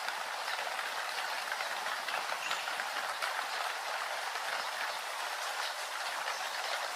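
Steady rain falling: a dense, even hiss with scattered small drop ticks.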